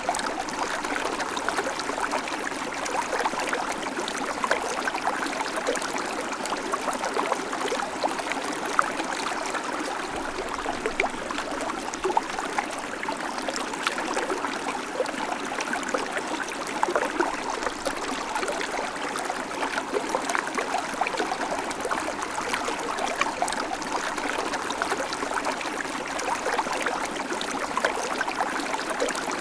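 Babbling creek: shallow water running and trickling over stones, a steady bubbling rush with constant small splashes and no change in intensity.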